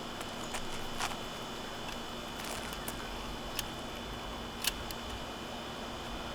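Small handling clicks from work on asphalt roof shingles, three or four sharp ones with the loudest about three-quarters of the way in, over a steady background hiss and hum.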